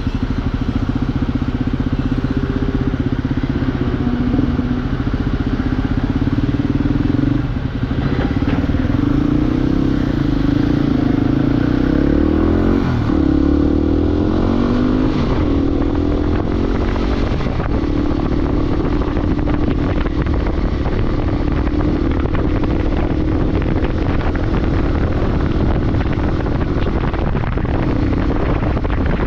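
Motorcycle engine running on the move, its pitch rising and dropping through several gear changes in the middle stretch, then holding steady, over a constant rushing noise.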